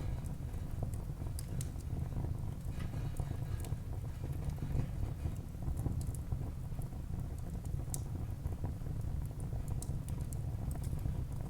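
Wood fire burning in a fireplace: a steady low rumble with frequent, irregular sharp crackles and pops of the burning wood.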